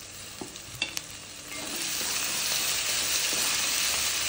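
Onions frying in hot oil in a metal kadai, with a wooden spatula clicking against the pan a couple of times; about one and a half seconds in, the sizzling jumps louder and stays steady as curry leaves, dried red chillies and coriander leaves go into the oil.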